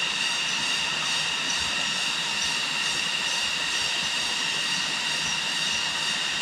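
A steady, high-pitched droning buzz that holds without a break.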